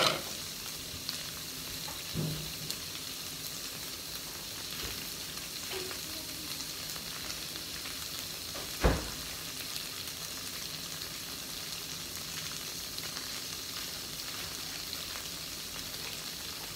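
Extra firm tofu cubes frying in oil in a pan over a gas flame, a steady sizzle. A small thump about 2 seconds in and a louder one about 9 seconds in.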